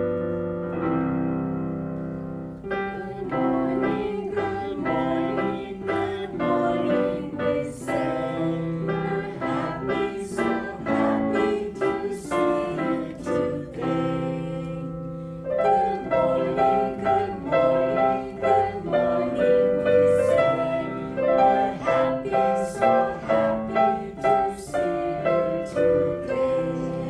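Background music with a steady beat: a children's song played on piano or keyboard.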